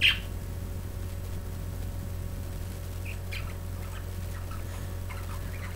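Pet budgerigars chirping: one sharp chirp at the start and a few faint chirps about three seconds in, over a steady low hum.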